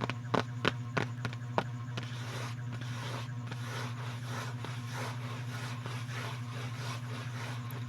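ASMR tapping and scratching. About five sharp taps come in the first couple of seconds, then soft scratching strokes about twice a second, over a steady low hum.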